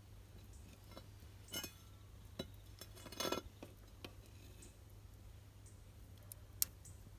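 A few scattered light clicks and knocks, with a short cluster about three seconds in and a single sharp click near the end.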